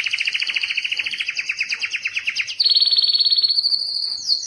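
Domestic canary singing in fast trills of rapidly repeated notes, shifting to a higher trill about two and a half seconds in and changing again near the end.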